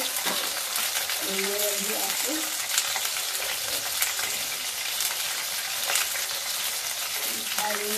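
Diced potatoes frying in oil in a steel kadhai, a steady sizzle, with a few sharp clicks in between.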